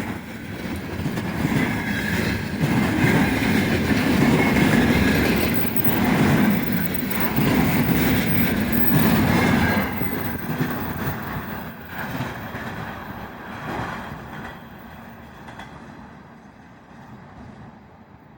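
Container freight train's wagons rolling past, their wheels clacking over the rail joints. Loud for about the first ten seconds, then fading steadily as the train moves away.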